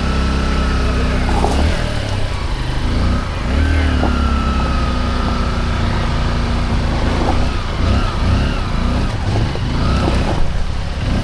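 Motorbike engine revving hard and holding its revs. The revs drop briefly about two seconds in, climb again soon after, and waver toward the end.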